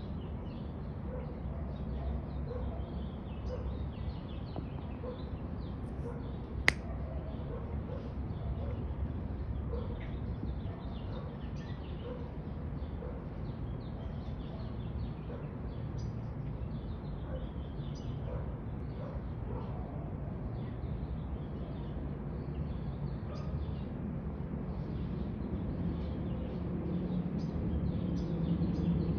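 Small birds chirping over and over, many short high calls, over a steady low outdoor rumble. A single sharp click about seven seconds in; a low hum grows louder near the end.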